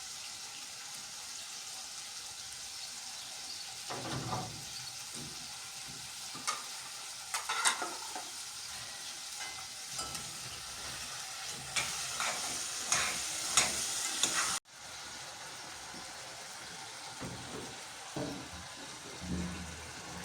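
Food sizzling as it fries in a pan while it is stirred, with a steady hiss and scattered knocks and clinks. The sound cuts off sharply about three-quarters of the way through, and a quieter stretch with a few low knocks follows.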